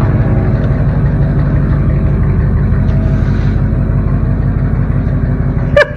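Chevrolet Silverado's 8.1-litre Vortec V8 running steadily at low revs as the truck creeps forward.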